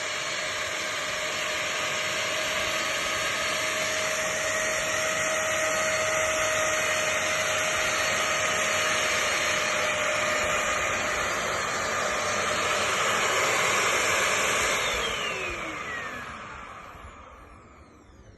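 Upright vacuum cleaner running with a steady whine, then switched off about fifteen seconds in, its motor winding down with a falling pitch.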